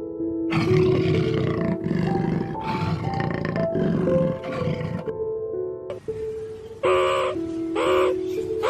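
An animal roaring in four deep, rough bursts over background music. From about seven seconds in come two short harsh calls that rise and fall in pitch.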